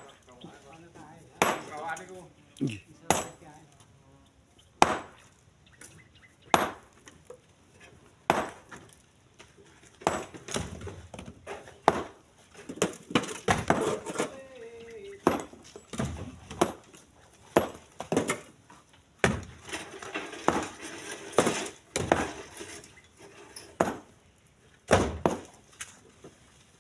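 Split stones being thrown by hand into a truck bed, each landing with a sharp clack or clink, irregularly about every one to two seconds.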